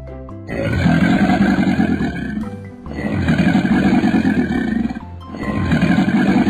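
Crocodile growl sound effect: three long growls in a row, over children's background music.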